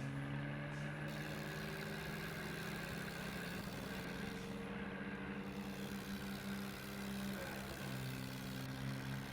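Swaraj 855 tractor's three-cylinder diesel engine running steadily. Its pitch shifts a little midway and settles back near the end.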